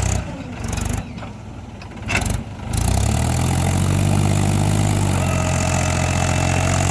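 John Deere tractor's diesel engine running, with its sound breaking off and coming back in the first three seconds, then running steadily. A higher steady whine joins near the end.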